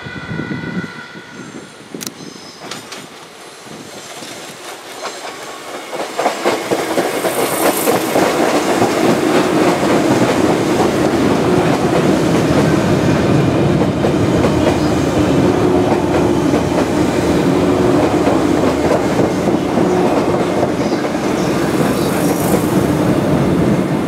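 Izukyu 2100 series electric train rolling by on the rails, building up over a few seconds and then staying loud and steady, with wheels clacking over rail joints.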